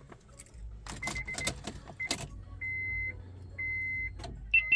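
Keys jangling and sharp clicks as the Honda CR-V's ignition key goes in, with a high steady in-car warning beep sounding on and off in short spells of about half a second. The engine has not yet cranked.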